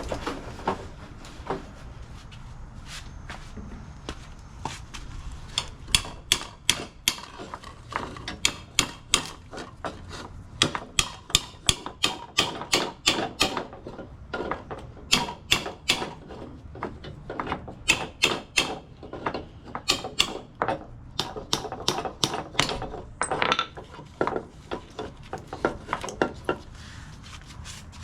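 A hammer striking metal over and over, in irregular runs of a few blows a second, each blow sharp with a short ring.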